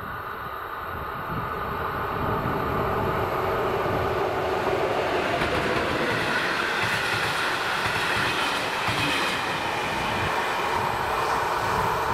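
Passenger train hauled by a ČD class 362 electric locomotive passing over the level crossing. The noise builds over the first couple of seconds and then holds loud as the locomotive and carriages go by.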